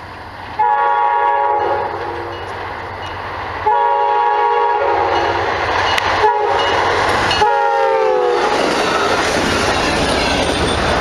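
Locomotive multi-chime air horn sounding the grade-crossing signal: long, long, short, long. The chord drops in pitch on the last blast as the locomotive passes, and then comes the steady rumble and wheel noise of the passing train.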